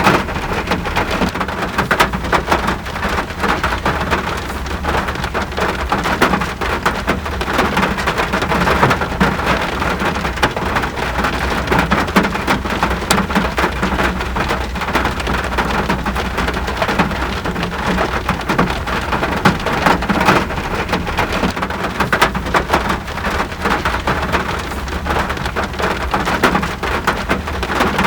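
Steady rain falling on surfaces, a dense even patter of many drops with a constant low rumble underneath.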